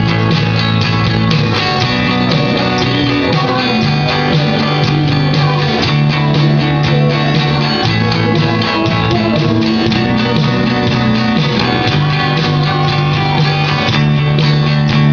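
A live band plays a loud, dense song, with guitars and bass notes that change every few seconds.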